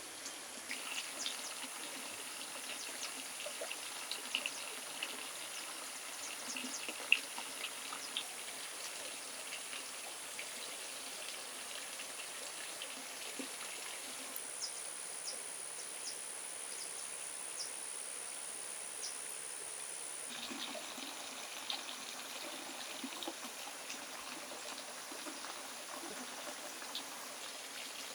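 Running water trickling steadily, with a thin high steady drone and scattered small clicks and taps, one sharper click about seven seconds in. The background changes abruptly twice.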